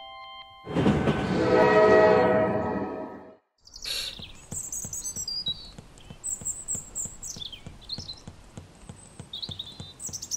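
A train rushing past for about three seconds, with a few pitched squeal tones in it, then birds chirping over a quiet background with light ticking.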